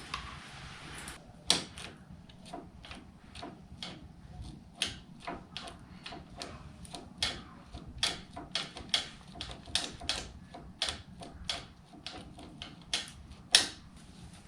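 A steady hiss that stops about a second in, then a long series of irregular sharp clicks and taps, a couple of them much louder than the rest.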